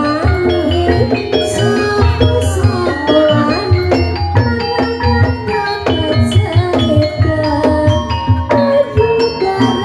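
Javanese gamelan music accompanying an ebeg horse-trance dance: struck metal or bamboo keyed instruments play interlocking melodic patterns over a steady hand-drum rhythm.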